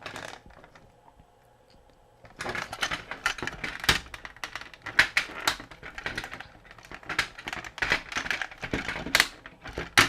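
Hard plastic parts of an action figure's leg being handled and pried at, a quick irregular string of clicks and clatters that starts about two seconds in.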